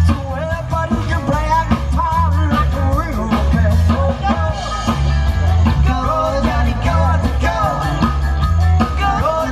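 Rock-and-roll band playing, with a singer over a steady drum beat and a bass line.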